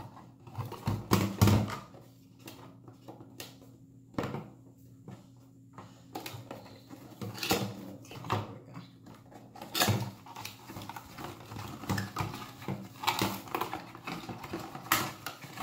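Hair dryer and its box packaging being handled and unpacked: irregular rustling, taps and knocks, with a faint steady low hum underneath.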